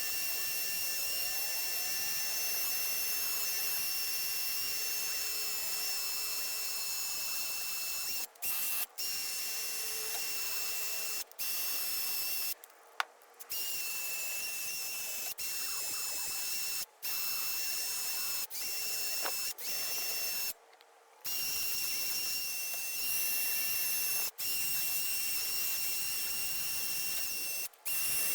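Power drill running steadily with a high-pitched whine, cutting off briefly several times before picking up again.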